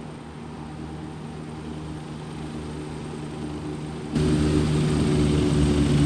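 Aeroplane engine droning steadily, slowly growing louder, then jumping suddenly much louder about four seconds in.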